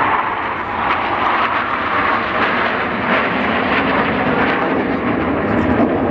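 KAI T-50B jet aircraft flying past: a loud, continuous rush of jet engine noise.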